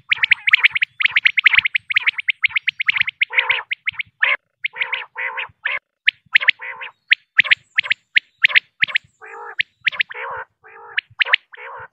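Female common quail calling: rapid runs of short, high chirps, several a second, mixed from about three seconds in with lower, rougher, wavering notes.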